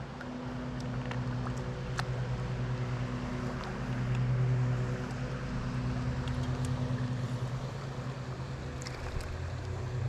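A motor hums steadily at a low pitch, swelling somewhat about four seconds in, with a few faint clicks over it.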